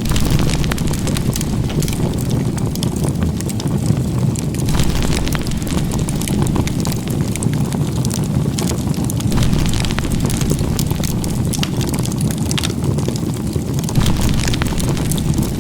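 Campfire burning, with frequent small sharp crackles over a steady low rumble.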